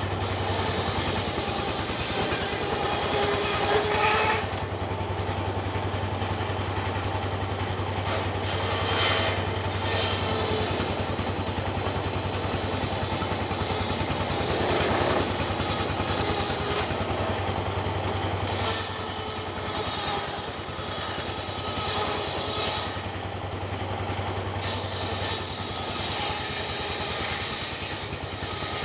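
An engine running steadily, with its low hum fading out about three-quarters of the way through.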